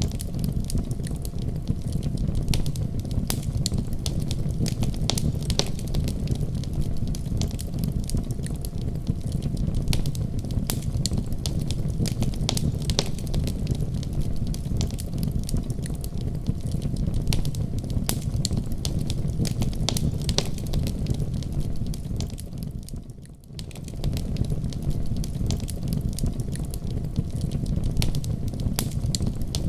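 Wood fire crackling in a fireplace: a steady low rumble of flames with many sharp, irregular pops and snaps. The sound briefly fades almost away about three-quarters of the way through, then comes back.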